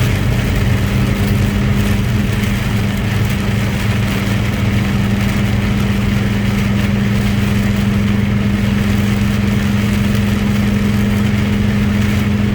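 Truck engine running with a steady, unchanging drone, with road noise from driving.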